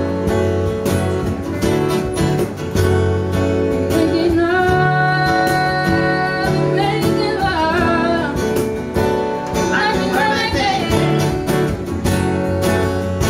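Live acoustic country song: strummed acoustic guitar and a cajon beat under a singer who holds long, wavering notes in the middle.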